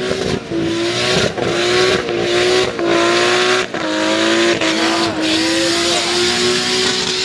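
Nissan Skyline R31's RB20 straight-six held at high revs in a burnout, with tyres squealing. The engine note dips briefly and recovers about once a second.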